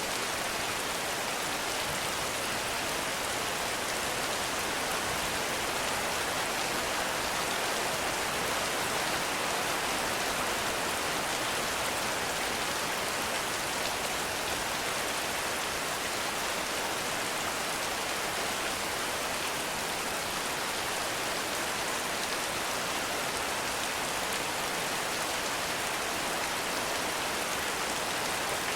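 Heavy rain falling steadily, an even hiss of drops with no thunder or other events.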